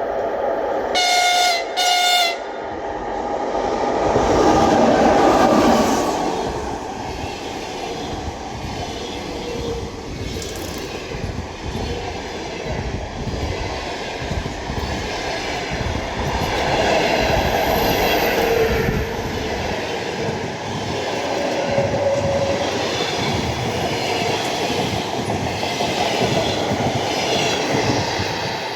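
An EP2K electric locomotive gives two short blasts on its horn as a greeting, then it and its passenger coaches run past with a steady rhythmic clickety-clack of wheels over rail joints.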